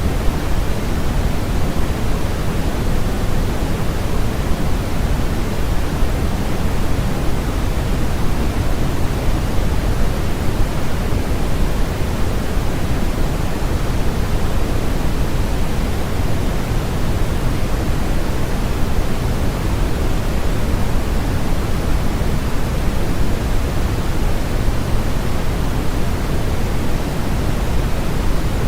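Steady generated noise for sleep, sold as white noise but deeper in tone, with more weight in the lows than the highs, like pink noise. It is even and unchanging, with no rhythm and no events.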